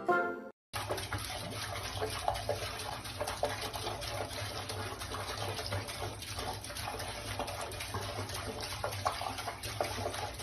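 Steady rush of running water, starting suddenly about half a second in and going on evenly.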